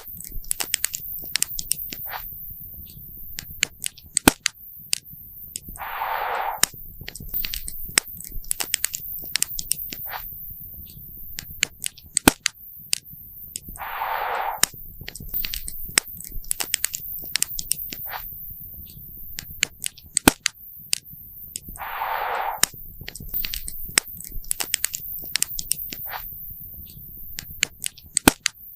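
Campfire crackling and popping, with many sharp snaps over a low steady rumble. A short hiss comes about every eight seconds.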